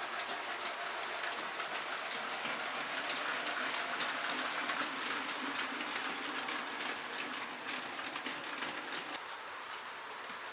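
H0-scale model trains running on the layout: metal wheels clicking over the rail joints over the steady rolling noise of the track, with a small electric motor humming until about nine seconds in.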